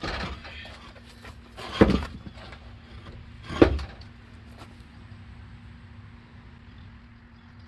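Three sharp knocks or clanks of work on the truck's wheels, one at the start, then two louder ones about two and three and a half seconds in, over a steady low hum.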